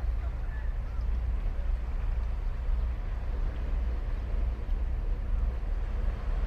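Ocean surf on a beach: a steady rush of waves with a deep low rumble underneath.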